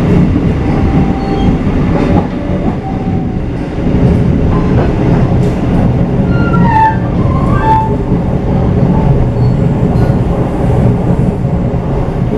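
Passenger train running along the track: a loud, steady rumble of wheels on rails, with a few short, high-pitched squeals about halfway through.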